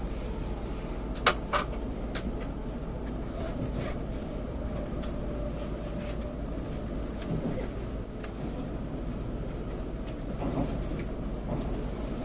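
Cabin noise of a Tokaido Shinkansen train running, heard from inside the passenger car: a steady low rumble and hum, with two sharp clicks about a second in and a few fainter ticks.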